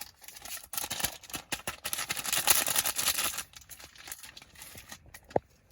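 Plastic packaging crinkling and rustling as it is handled, busiest for a few seconds in the middle, then softer, with one sharp click near the end.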